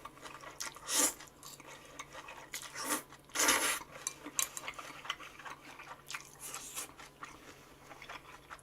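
Eating sounds at a table: chopsticks and cutlery clicking and scraping against food containers, with two short louder noisy bursts about one and three and a half seconds in.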